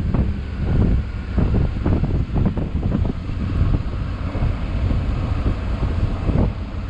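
Wind buffeting the microphone over the low, steady rumble of a motorcycle riding along.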